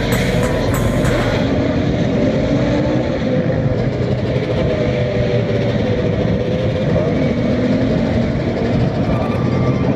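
Several dirt bike and quad engines running together, their pitches drifting up and down as they rev.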